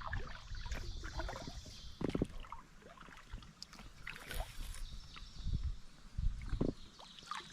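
Kayak paddling: the paddle dipping and pulling through the water, with irregular splashes and light knocks.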